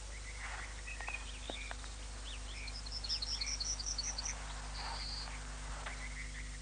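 Small birds chirping quietly, with a quick run of high chirps around the middle and a short whistle a little later, over a steady low electrical hum.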